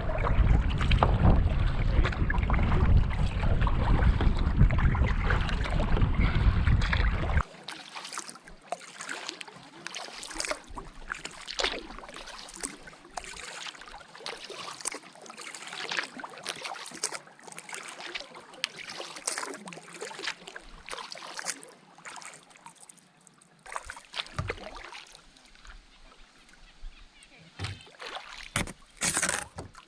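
Paddling a canoe on a lake: wind rumbling on the microphone over water noise for about the first seven seconds, then it cuts suddenly to a much quieter bed with scattered light knocks and scrapes.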